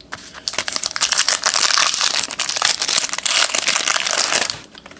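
Plastic trading-card pack wrapper being torn open and crinkled by hand, a dense crackling rustle that starts about half a second in and stops about a second before the end.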